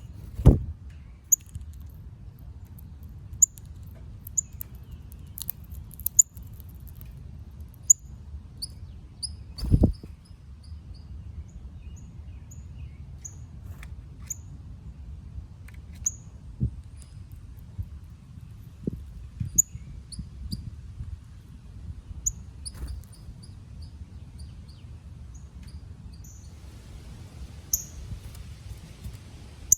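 Northern cardinals calling: short, sharp, high chip notes scattered every second or so over a steady low rumble. Two dull thumps stand out, one just after the start and one about ten seconds in.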